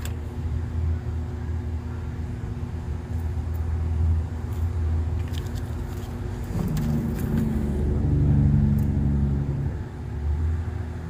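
A vehicle engine idling steadily, a low rumble, with a second hum joining for a few seconds past the middle. There are a few light clicks from plastic wiring connectors being handled.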